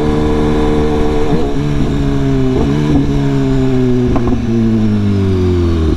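BMW S1000RR's inline-four engine running under way: its pitch holds steady for about a second and a half, then falls slowly as the revs drop.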